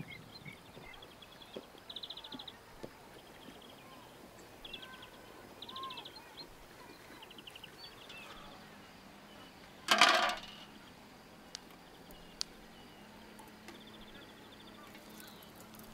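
Songbirds calling in short rapid trills and chirps over quiet outdoor ambience. About ten seconds in there is a single brief, loud clatter, and a faint low steady hum comes in during the second half.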